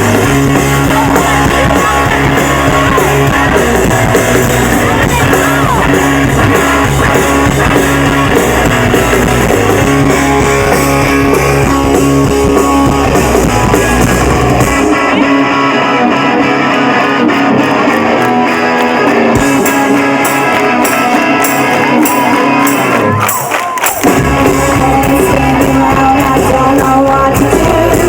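Live rock band playing: electric guitar, drums and vocals, recorded loud through a phone's microphone. About halfway the bass and low drums drop out, leaving guitar; evenly spaced hits come in later in that stretch. After a brief dip the full band comes back in near the end.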